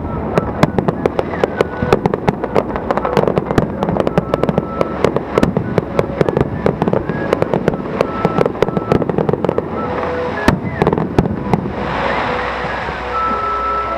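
Aerial fireworks show: a dense, continuous barrage of shell bursts, many sharp bangs and cracks in quick succession, with a sustained crackling hiss about twelve seconds in.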